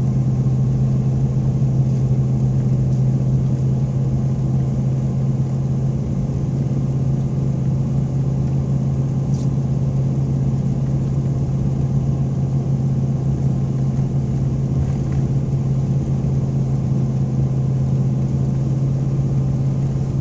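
Pickup truck engine running at a steady speed while driving, a constant low drone over road and tire noise.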